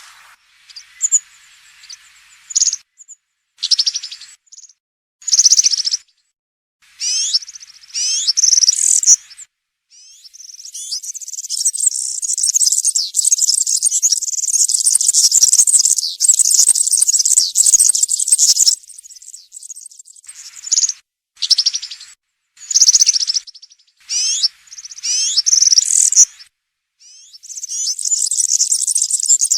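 European serin singing its fast, high, jingling song in short bursts, with one long unbroken stretch of song of about eight seconds midway.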